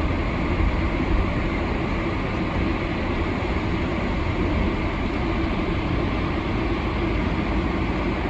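Steady vehicle driving noise heard from inside the cabin: the engine's low rumble mixed with tyre and road noise on a snowy road, even and unbroken.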